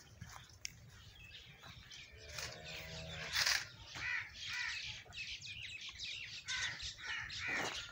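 Birds calling: a quick run of short, repeated calls through the second half, with a brief loud noise about three and a half seconds in.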